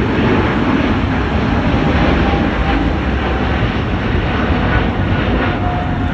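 Jet airliner passing close, its engines making a loud, steady rushing noise with a faint whine that drifts in pitch.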